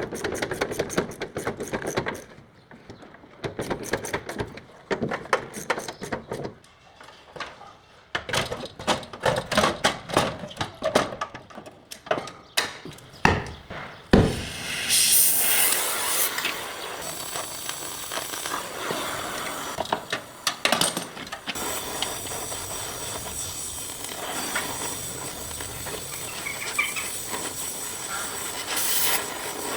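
Body-shop tool work on car panels: a long run of irregular sharp knocks and taps, then, about fourteen seconds in, a steady hissing rush like a power sander working the metal.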